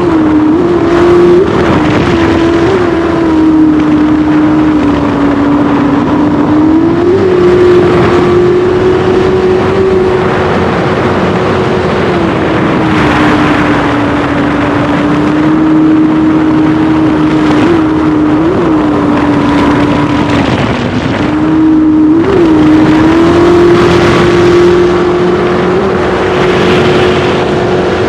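Racing jet boat's engine running hard and continuously at high revs. Its pitch eases down and climbs back a few times, with several brief blips of revs as the throttle is worked.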